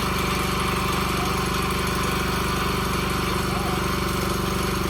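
Gasoline engine-driven Miller welder running at a steady speed.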